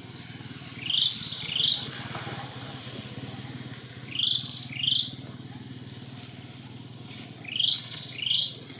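A bird calling in pairs of short, rising chirps, three pairs about three seconds apart, over a steady low hum.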